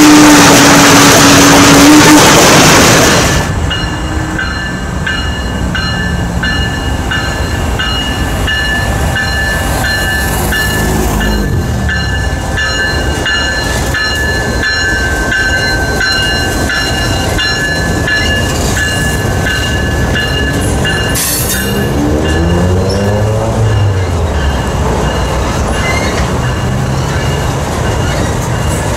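Diesel-hauled CSX freight train rolling over a steel girder bridge, its wheels rumbling on the rails with a steady high-pitched wheel squeal. The first few seconds hold a louder, different sound with a steady low tone that cuts off suddenly.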